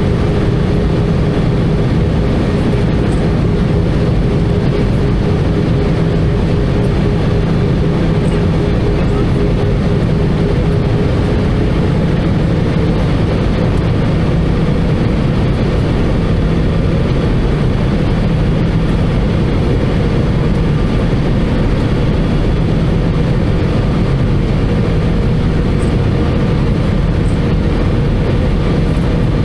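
Airbus A320 cabin noise in flight: a steady rush of airflow over the fuselage mixed with the hum of its CFM56 turbofan engines, with faint steady tones in the hum.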